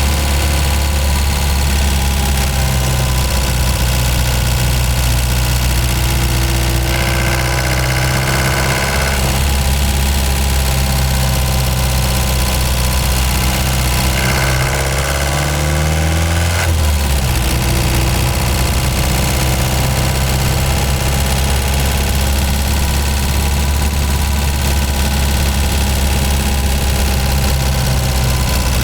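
Ford Transit Mk5 van engine running steadily while driving. About halfway through, the engine note rises for a couple of seconds and then drops back suddenly, as when accelerating and changing gear.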